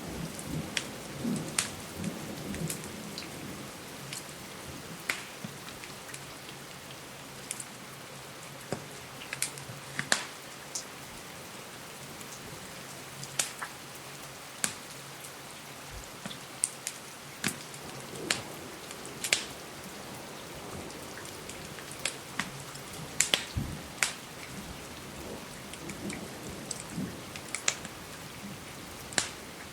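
Steady rain hissing against a window, with a fireplace crackling over it in irregular sharp pops and snaps.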